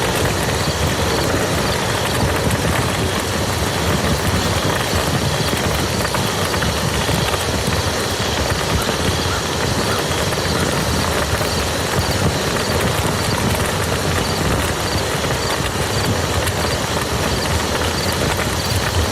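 Steady rain falling on a muddy field, a dense, even patter of countless drops.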